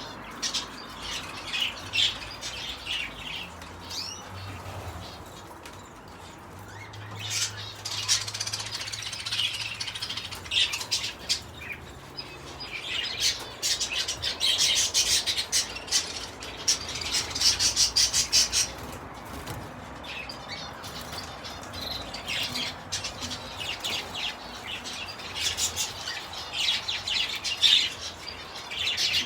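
A room full of small caged birds chirping in repeated busy bursts, with wings fluttering.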